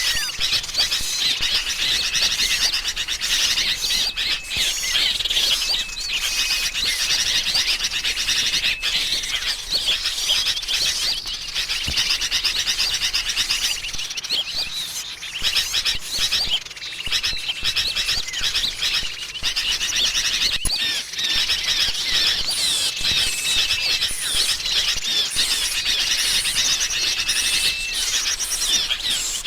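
Bird-lure recording of sooty-headed bulbuls (kutilang) calling in agitated alarm, mixed with other small songbirds, making a dense, continuous chorus of chattering chirps. A short, steady whistle recurs every few seconds through it.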